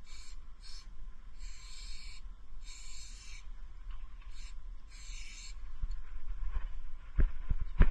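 Marker nib rubbing across a surface in six short strokes of scratchy hiss, over a low steady rumble, with a few sharp knocks near the end.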